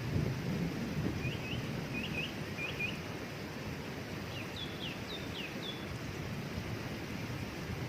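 Steady rush of a waterfall, with a small bird chirping over it: three quick pairs of short rising notes in the first few seconds, then a run of higher, falling notes around the middle.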